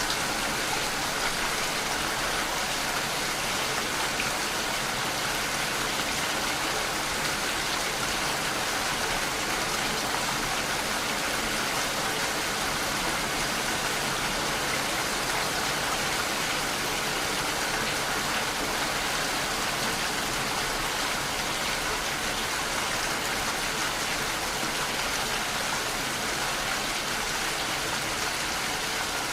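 Steady rainfall: a dense, even hiss of rain with no let-up or change in strength.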